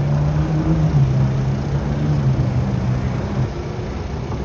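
Car engine running low as the car creeps past close by, a steady hum that fades out about three and a half seconds in.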